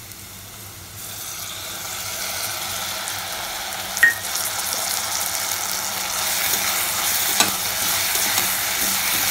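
Onions, green chillies and curry leaves sizzling in hot oil in a stainless steel pressure cooker pan; the sizzle grows louder about a second in as ginger-garlic paste goes in. A short clink about four seconds in, then scraping and stirring with a perforated metal spatula against the pan.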